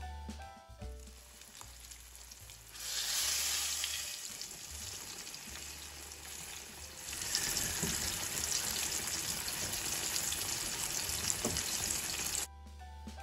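Food sizzling as it fries in a hot pot, a dense hiss that builds about three seconds in and cuts off abruptly near the end, with quiet background music underneath.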